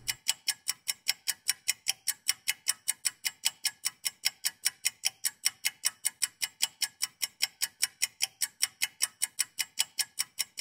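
Steady, rapid ticking, about five even ticks a second, sharp and high-pitched, like a clock or timer.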